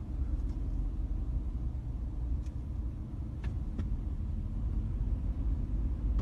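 Steady low rumble of a car driving, road and engine noise heard from inside the cabin, with a few faint light ticks.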